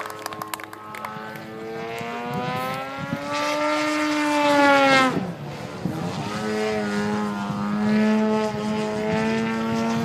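Engine and propeller of a large radio-controlled model airplane in flight. The pitch rises as it approaches and drops sharply as it passes overhead about five seconds in, then it runs on as a steady drone.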